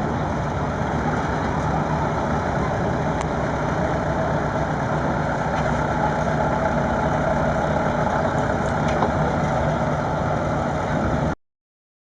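Volvo D47 diesel engine of an Åkerman 475 cable backhoe running steadily, then cut off suddenly near the end.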